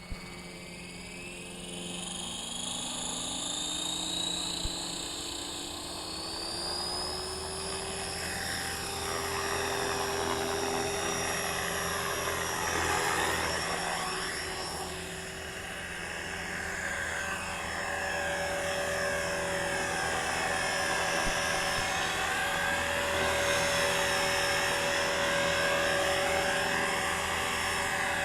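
ALZRC X360 electric RC helicopter spooling up and hovering: a motor and gear whine rises in pitch over the first several seconds, then holds steady with a wavering rotor sound. The main rotor drive makes a severe abnormal noise, which the owner traces to a motor pinion gear worn about halfway down and shedding brass-coloured metal dust onto the main rotor gear.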